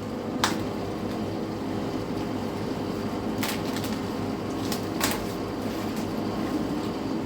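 A steady mechanical hum with three sharp clicks, about half a second, three and a half and five seconds in.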